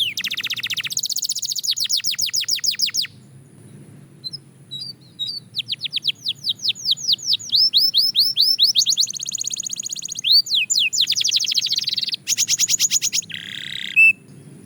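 Belgian canary singing in fast rolls of rapidly repeated sweeping notes. Between about 3 and 5 seconds in, the rolls give way to a few scattered single chirps, then the rolls resume until just before the end.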